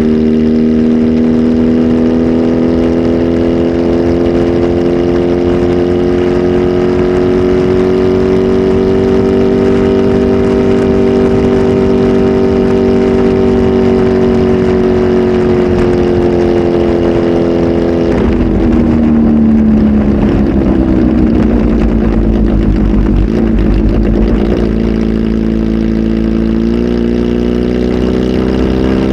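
Kawasaki Z H2 SE's supercharged inline-four, flash tuned and fitted with a full exhaust system, running loud at a held engine speed with its note drifting slowly up and back. About eighteen seconds in the note drops and goes rough and uneven with more low rumble. Near the end it settles into a steady note again.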